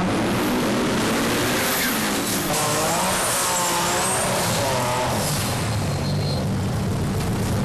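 Drag-race car engines running at the start line, revved up and down so their pitch rises and falls, over a steady loud mix of engine noise.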